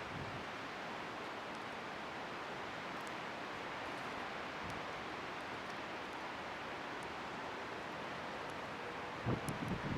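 Wood bonfire burning with a steady hiss and a few faint, sparse crackles. Wind buffets the microphone with a low rumble near the end.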